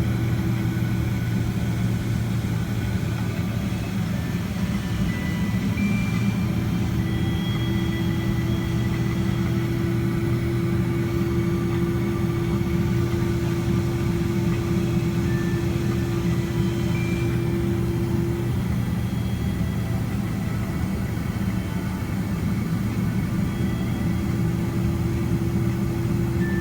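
Steady cabin rumble of a Boeing 767-300ER on the ground with its engines at idle during the taxi. A steady low hum runs over it and drops out for a few seconds twice, near the start and in the second half.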